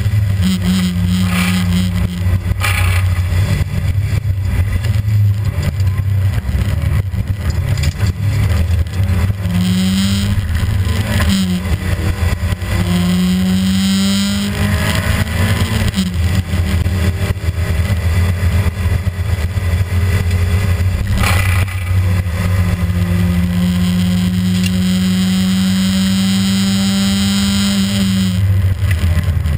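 Rally car's engine at full effort, heard from inside the cabin: revs climbing in long pulls and dropping back several times as the car accelerates, brakes and changes gear.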